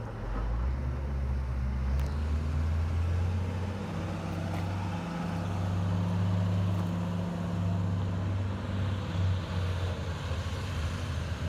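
Caterpillar rock truck's diesel engine running. Its low note climbs within the first second and shifts in pitch about five seconds in.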